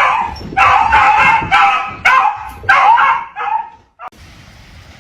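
A dog giving a run of about six high-pitched yipping barks, which stop about a second before the end.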